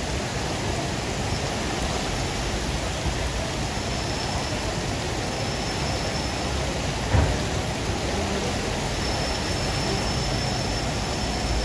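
Heavy rain pouring steadily onto a paved terrace, a dense even hiss, with one short thump a little past halfway.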